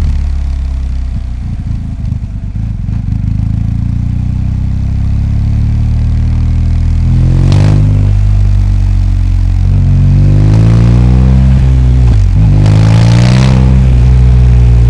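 BMW R 1250 GS boxer-twin engine pulling through traffic, revving up twice with a brief dip in pitch at each upshift, about halfway through and again near the end.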